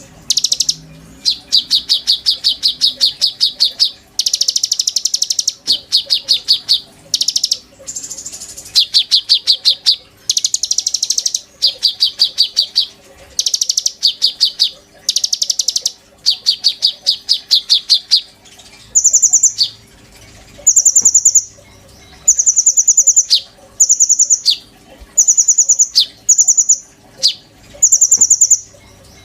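A konin songbird singing: a long run of rapid, high-pitched trills, each a second or two long with short gaps between. About two-thirds of the way through, the trills give way to shorter, higher, clipped phrases repeated about once a second.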